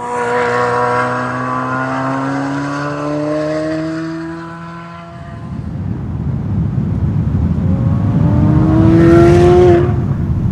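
Chevrolet Corvette C8 Z06's naturally aspirated flat-plane-crank V8 accelerating under load. The exhaust pitch climbs steadily for about five seconds and gives way to a rough low rumble. It then climbs again to its loudest just before the end and breaks off suddenly.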